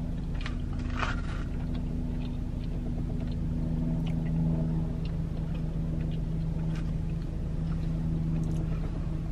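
Steady low hum of a car idling, heard from inside the parked car's cabin, with a few faint clicks of eating about a second in.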